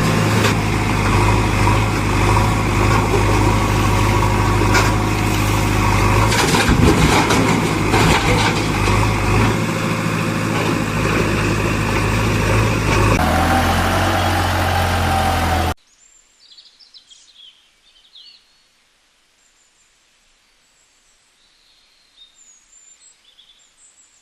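Heavy diesel machine engine running steadily; its tone shifts about 13 seconds in, and it cuts off suddenly a few seconds later. Faint bird chirps follow.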